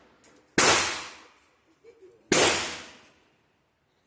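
Two gunshots about a second and a half apart, each a sharp crack followed by a reverberating tail that dies away over most of a second.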